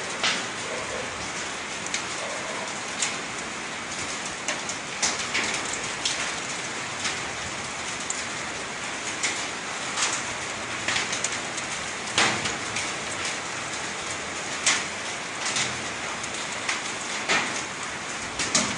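Rain falling steadily on hard surfaces, with frequent sharp individual hits of heavier drops about once a second.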